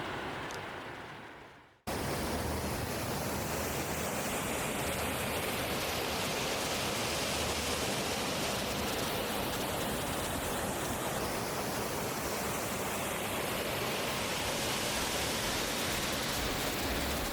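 Steady, dense rushing of a waterfall. It cuts in suddenly about two seconds in, after an earlier sound fades away.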